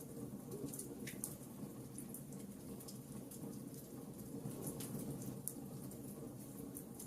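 Wood fire burning in a fireplace, with a steady low rumble of flames and frequent small, irregular crackles and pops.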